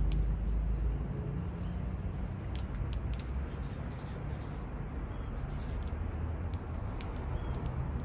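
Small birds giving short, high, thin chirps and squeaks scattered throughout, over a steady low rumble.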